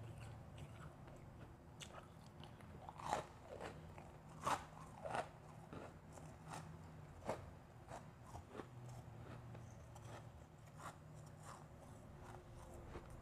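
Refrozen powdery blended ice being bitten and chewed. A run of loud, sharp crunches comes a few seconds in, followed by softer scattered crunches as the ice is chewed.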